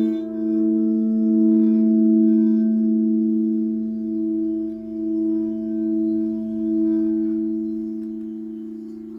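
Singing bowls ringing together, several sustained tones with a slow wobbling pulse, fading gradually toward the end.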